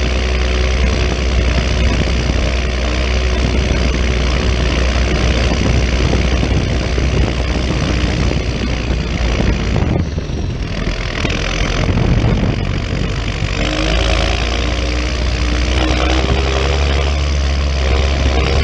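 John Deere 6920 tractor's six-cylinder diesel engine running steadily. About ten seconds in the sound briefly dips, then the engine settles into a changed, more clearly pitched note.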